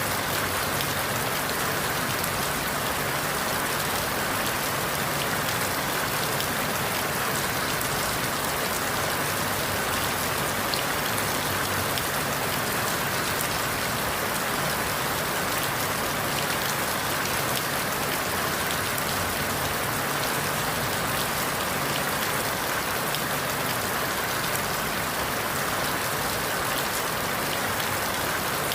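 Steady rain falling through forest leaves, an even hiss with countless small drop ticks.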